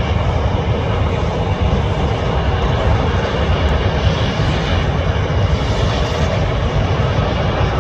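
Jet airliner's engines: a steady, loud deep rumble with a broad hiss above it.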